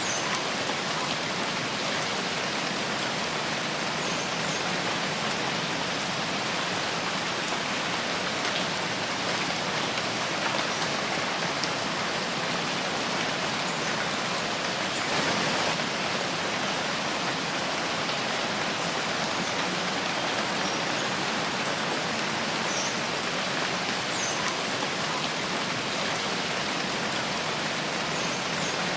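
Steady rain falling in a forest, a dense even patter with a slight swell about halfway through. A few faint, short high-pitched chirps sound now and then above the rain.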